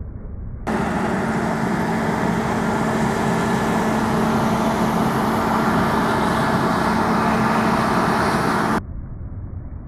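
New Holland CR9.90 combine harvester running steadily at work in wheat, a constant machine hum with a steady droning tone. It comes in suddenly about a second in and cuts off just before the end.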